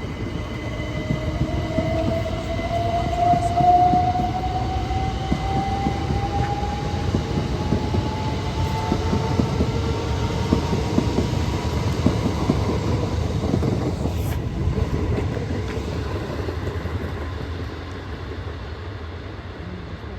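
A train running past on the track with a steady rumble, and a whine rising in pitch over the first several seconds. It fades away near the end, with one sharp click partway through.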